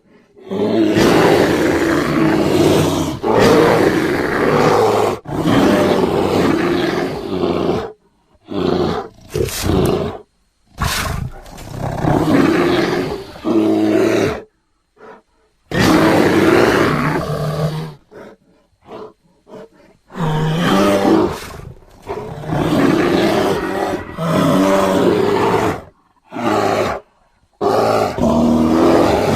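Grizzly and black bear roars: a series of loud roars, each about one to three seconds long, with short silences between them.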